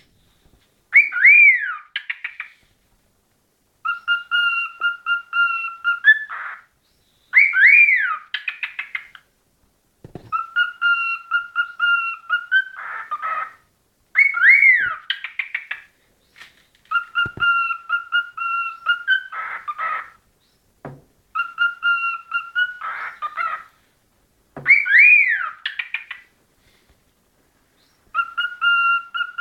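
Cockatiel singing a repeated whistled song. Phrases come every three to four seconds with short pauses. A swooping up-and-down whistle followed by quick stuttering notes alternates with a held, level whistle that ends in a brief buzzy chatter.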